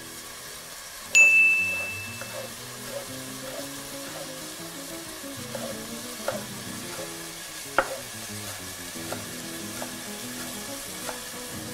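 Chopped onion, carrot and celery sizzling gently in olive oil in a pan, with a few sharp knife chops on a wooden board as parsley is cut. A single bright ding rings out about a second in, louder than everything else.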